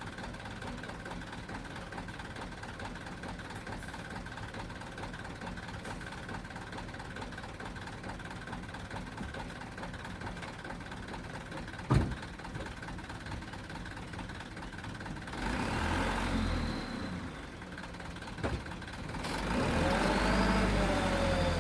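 Dump truck's diesel engine running steadily, with a sharp knock about midway. Near the end the engine note twice swells louder and rises and falls in pitch as it is revved.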